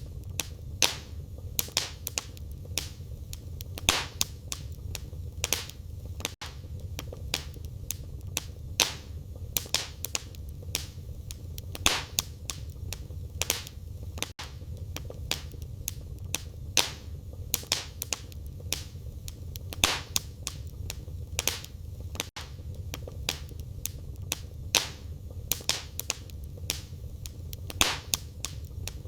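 Wood fire burning in a fireplace, crackling steadily with frequent sharp pops and snaps over a low, even rumble of flame.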